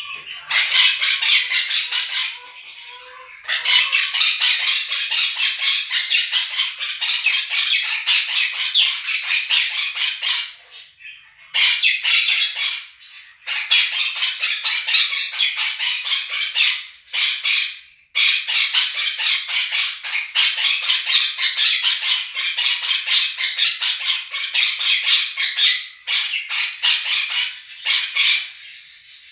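Two Quaker parrots screeching and chattering over the warbling of a budgerigar flock, a dense, rapid, high-pitched racket in long runs of several seconds broken by short pauses.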